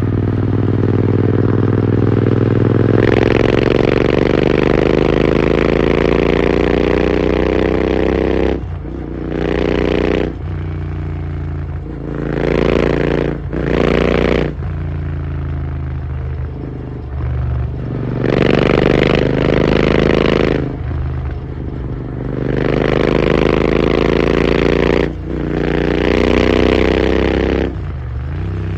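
Royal Enfield GT650 parallel-twin engine through an AEW aftermarket exhaust. It starts on a steady note, its pitch climbs slowly for about five seconds, and then it is blipped up and down five or six times, dropping back to a lower note between blips.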